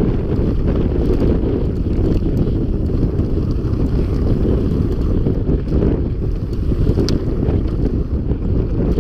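Wind buffeting a helmet or bike-mounted camera's microphone as the mountain bike rides at speed, a heavy low rumble, with light clicks and rattles scattered through it and one sharper tick about seven seconds in.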